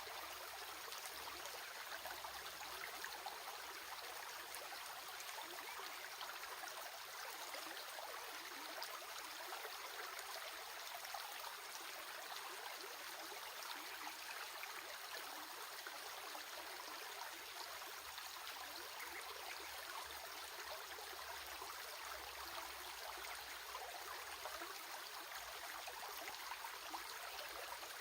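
A stream running steadily, a constant rushing and trickling of water.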